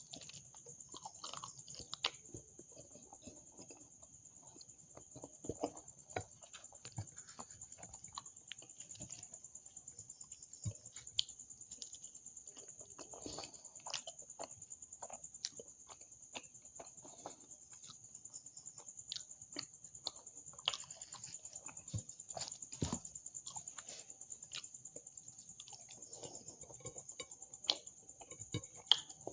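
Close-miked chewing and mouth sounds of a person eating a meal of kachori with dum aloo and curries, with many small wet clicks scattered through. A steady high-pitched whine sits underneath.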